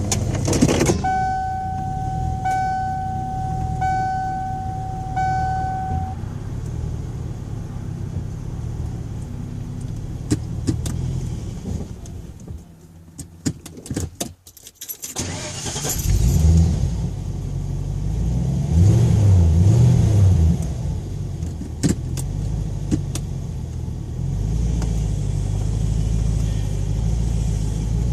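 Ford Thunderbird: a car's warning chime beeps steadily about every second and a half over the running engine, with keys jangling. Near the middle the engine goes quiet with a few clicks, then it starts up, is revved twice, and settles into a steady idle.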